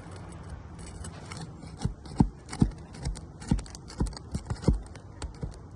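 A run of about ten irregular hard knocks over some three seconds, over a steady low hum.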